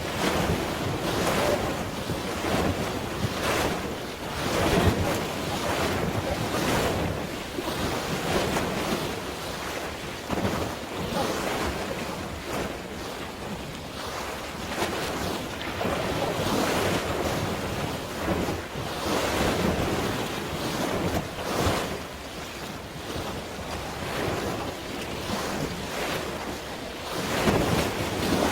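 Wind buffeting the microphone over washing water waves, a steady rush that swells and falls in uneven surges every second or two.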